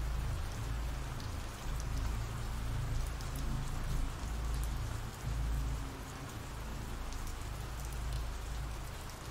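Steady rain falling, an even hiss with a low rumble underneath and scattered drop ticks.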